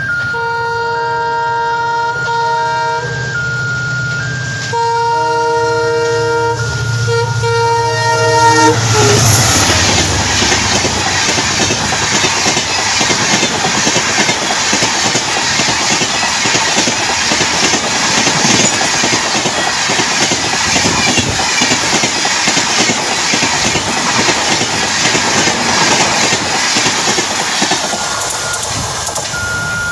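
EMD WDP-4D diesel locomotive sounding its multi-tone horn in a series of blasts with short breaks as it approaches, over the engine's rumble, for about the first nine seconds. The Rajdhani Express then rushes past at speed, its coaches rattling and wheels clattering on the rail joints for nearly twenty seconds before the noise drops away near the end.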